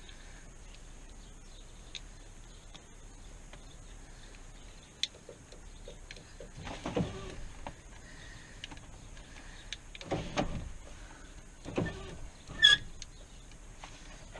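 Short bursts of rattling and clunking from work on a GMC Suburban's door and power-window mechanism, four or five separate bursts with pauses between. The loudest is a sharp metallic click near the end.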